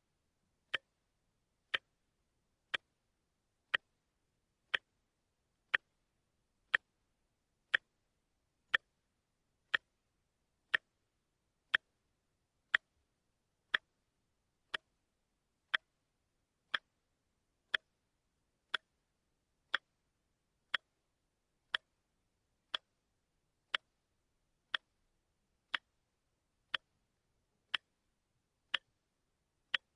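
A quartz wristwatch ticking steadily, one crisp tick a second, with silence between ticks.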